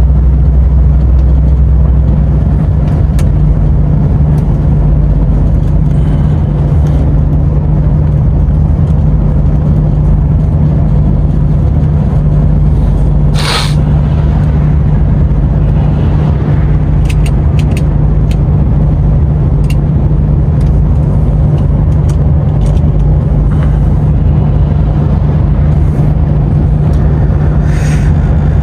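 DAF truck's diesel engine running steadily under way, a constant low drone with road noise. A short sharp hiss about halfway through.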